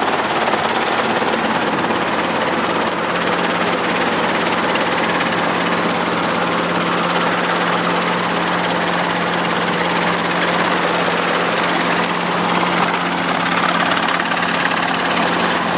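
Piston-engine training helicopter's engine and main rotor running steadily, with an unbroken low drone.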